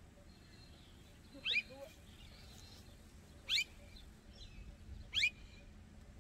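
A bird calling outdoors: three short, sharp calls that each sweep upward in pitch, about two seconds apart, over faint low background noise.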